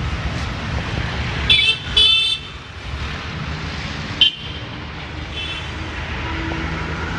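Road traffic rumbling steadily, with vehicle horns honking in two short blasts about one and a half and two seconds in, and a sharp click a little after four seconds.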